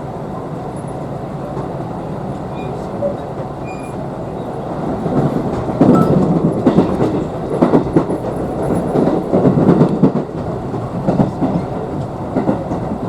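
Electric commuter train running on the rails, heard from inside the car: a steady rumble, then from about five seconds in, louder clusters of wheel clatter over the rail joints.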